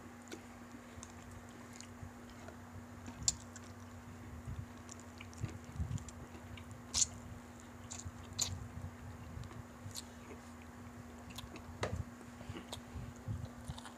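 Close-miked chewing and biting of fried chicken eaten by hand: wet mouth sounds with sharp, irregular crunches and clicks, the loudest a little past three seconds and about seven seconds in.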